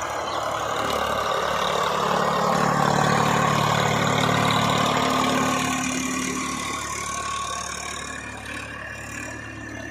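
Tractor diesel engine running steadily. It grows louder through the first few seconds and fades away over the last few.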